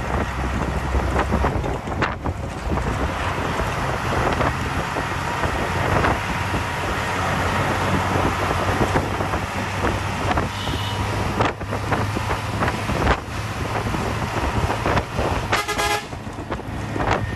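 Hino 1J bus running at road speed, a steady engine drone with road and wind noise, and a horn blast about three-quarters of a second long near the end.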